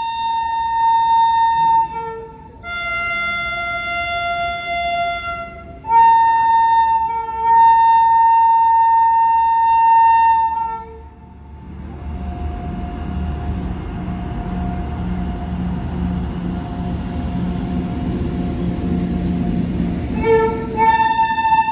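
Loud, steady held tones that change pitch between long notes fill the first half and come back near the end; in between, a loaded freight train of box wagons behind a WAG-9 electric locomotive rumbles past on the rails with a rhythmic wheel clatter.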